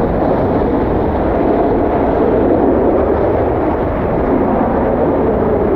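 A jet airliner's engines make a steady, loud roar, with wind buffeting the microphone.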